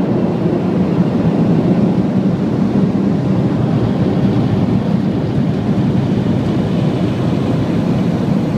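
Automatic car wash air-dryer blowers running, a loud, steady rush of air heard from inside the car.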